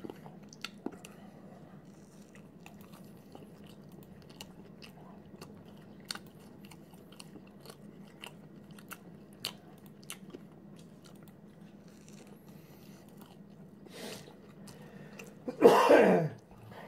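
Close-up chewing of a chicken wrap in a soft flour tortilla, with small mouth clicks and smacks at irregular moments. Near the end comes a short, loud voiced sound from the eater, falling in pitch.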